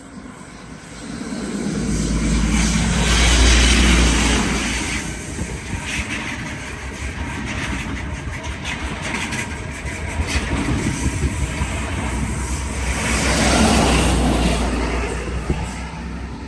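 An XPT diesel express passenger train passing through the station. The leading power car's engine hum builds to a peak about four seconds in, then the carriages' wheels click and clatter over the rails, and a second swell from the rear power car comes near the end before the sound fades.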